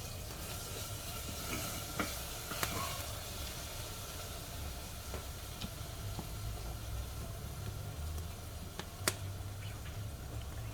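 Wood fire burning in a wood-fired cook stove: a steady hiss over a low rumble, with a few sharp crackles, the loudest about nine seconds in.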